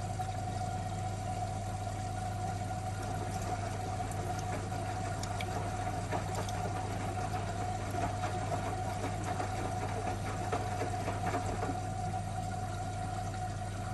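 Miele W1 front-loading washing machine running, with a steady low hum and a constant whine, and faint scattered clicks and rattles.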